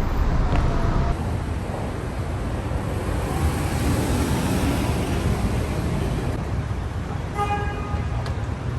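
Steady vehicle rumble with hiss over it, and a short horn-like tone about seven and a half seconds in.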